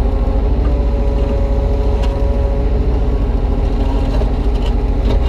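Kubota U35-3 mini excavator's diesel engine running steadily under digging load as the bucket is pulled through stony soil, with a steady higher tone over it for the first few seconds.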